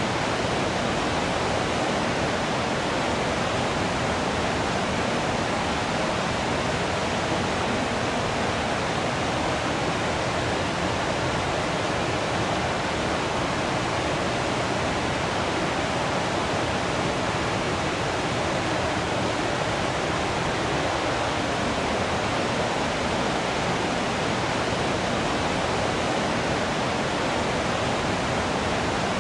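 Waterfall rushing with a steady, unchanging hiss of falling water.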